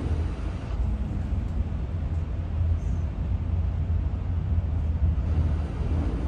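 Shinkansen bullet train running at speed, heard inside the passenger car as a steady low rumble.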